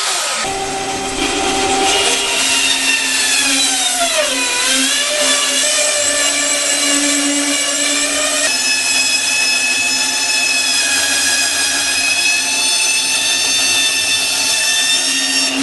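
Electric power saw cutting a piece of oak, running with a steady whine whose pitch sags about four seconds in as the motor slows under the cut, then recovers.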